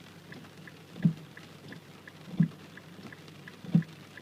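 Windshield wipers thudding at the end of each sweep, evenly about every second and a half, with a faint fast ticking, about three a second, and rain on the car.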